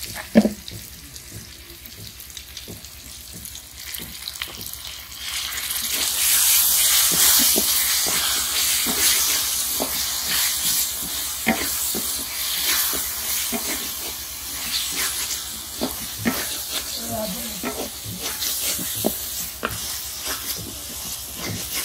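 Masala frying in an aluminium pot as almond paste is stirred in: a sizzle that swells about five seconds in and carries on, with the wooden spoon scraping and knocking against the pot.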